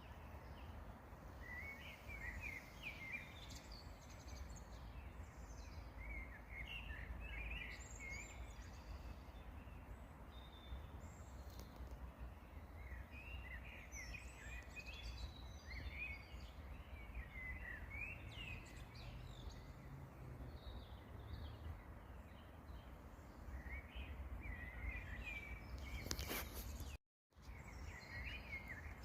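Songbirds singing in several bouts of quick, twittering phrases over a steady low rumble, with a click and a moment's break in the sound near the end.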